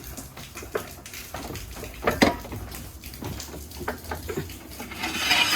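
Scattered metallic clinks and knocks of tools and parts being handled under the car, the loudest about two seconds in, followed near the end by a rising hiss.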